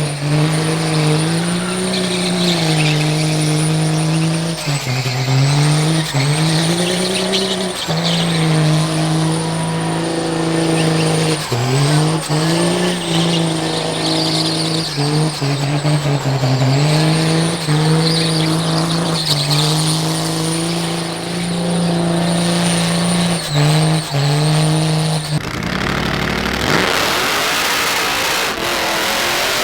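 Diesel truck engine held at high revs, repeatedly dipping and climbing back up, with a high whistle rising and falling along with it. About 25 seconds in the engine tone drops away and a broad rushing noise takes over.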